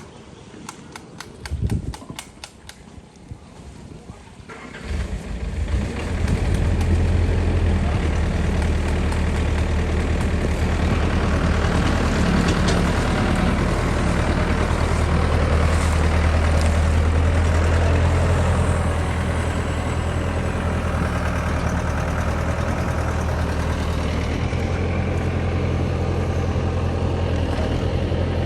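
Mini excavator's diesel engine starting about five seconds in, then running steadily, a little lower from about two-thirds through. A quick run of faint clicks comes just before it.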